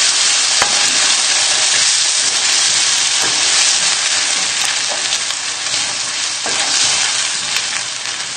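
Chopped tomatoes and bacon sizzling steadily in a non-stick frying pan on high heat while being stirred with a spoon, with a few light clicks.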